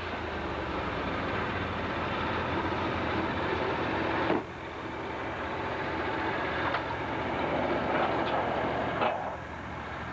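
Sawmill machinery running steadily, with a few sharp knocks, the loudest about four seconds in, after which the running noise drops briefly.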